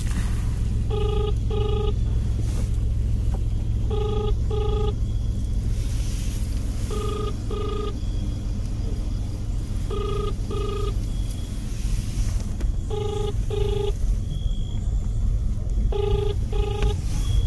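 Phone ringback tone on speakerphone: a double ring that repeats about every three seconds, over a steady low vehicle rumble.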